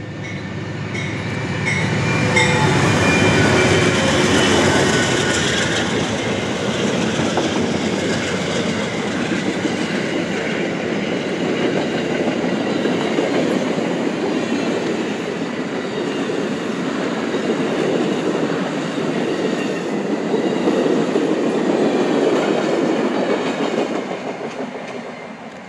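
A train passing close by at speed: the rush of the wheels on the rails with clickety-clack, building over the first two seconds, with some steady tones early on, then holding loud until it drops away about a second before the end.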